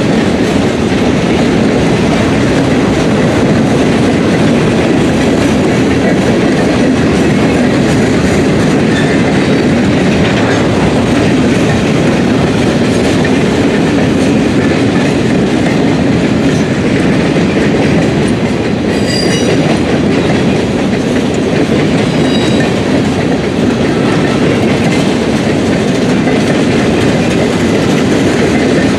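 Freight train cars rolling steadily past on the track, with a brief high-pitched squeal about nineteen seconds in.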